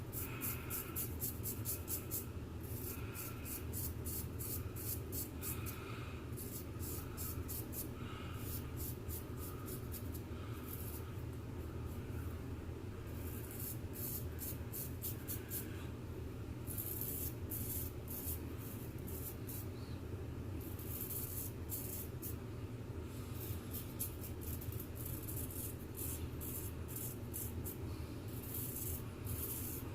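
Straight razor scraping across lathered stubble in runs of quick short strokes with brief pauses between them, on a second pass over several days' growth, over a steady low hum.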